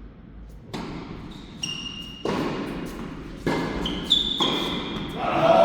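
Tennis ball struck by rackets and bouncing on an indoor court, several sharp hits a second or so apart, each ringing on in the hall, with short high shoe squeaks between them.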